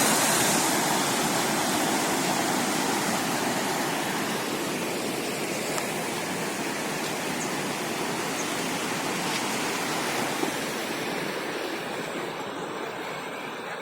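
Rushing water, a steady even roar that grows gradually fainter.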